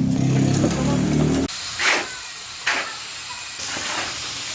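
An engine running steadily, which cuts off abruptly about a second and a half in, followed by two short hissing bursts.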